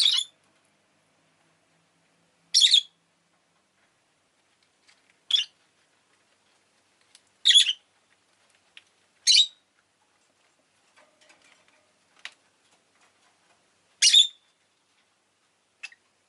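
Rosy-faced lovebird giving short, sharp, high-pitched chirps, about six loud ones a couple of seconds apart, with a few faint clicks in between.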